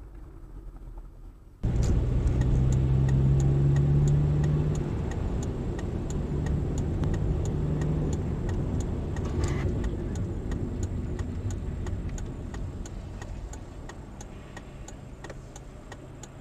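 Car engine running while driving, starting abruptly about two seconds in and easing off slowly, with a faint regular ticking through it.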